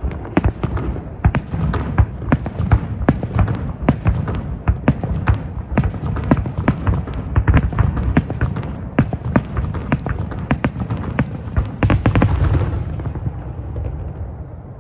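Aerial fireworks shells bursting in rapid succession, many sharp bangs over a continuous low rumble and echo. About twelve seconds in, a heavier volley comes with a hissing crackle, then the bangs fade away.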